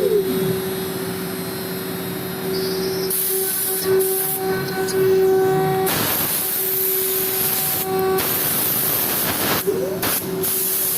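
CNC router spindle running at about 22,000 rpm with a single-flute 4 mm carbide end mill cutting polyethylene, giving a steady whine with cutting hiss that comes and goes as the tool moves through the cut. A whine rises and falls in pitch near the start and again near the end.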